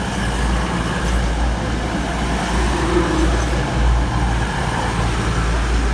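Class 222 Meridian diesel multiple unit running at the platform: a steady, loud low rumble of its diesel engines under a wash of noise.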